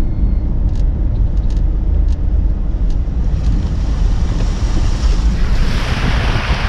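Low, steady rumble of a vehicle with wind buffeting the microphone; a rushing hiss builds from about halfway through.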